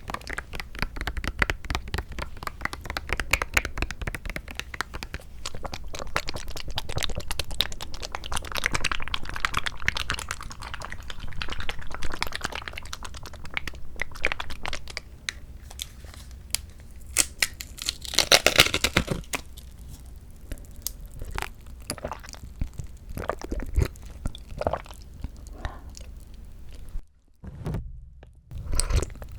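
Close-miked ASMR eating of mandarin segments from a Sunkist fruit cup: quick wet mouth clicks and crackles, with a louder, noisier burst about two-thirds of the way through. Near the end the sound drops briefly to near silence.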